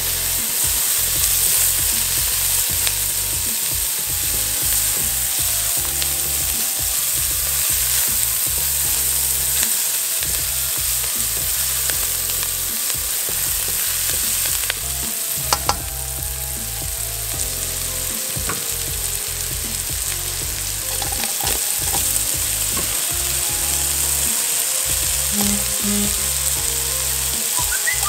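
Butter and chopped green onions sizzling in a nonstick wok, stirred and scraped with a silicone spatula. The hiss holds steady throughout, with two sharp knocks about halfway through.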